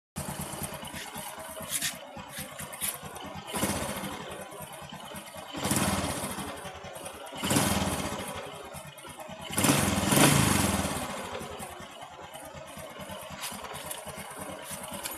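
Motorcycle engine running near idle with the throttle blipped about four times, the last rev the loudest. The engine is the one whose cam chain tensioner is giving the chain too little pressure, the cause of a tick-tick rattle at idle.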